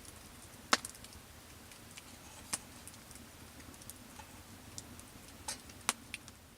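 Wood fire crackling: scattered sharp pops and small ticks at irregular intervals, three of them louder, over a faint low hum.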